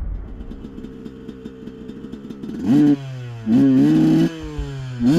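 Dirt bike engine running low, then revved in three sharp throttle blips, each one jumping up in pitch and easing back down.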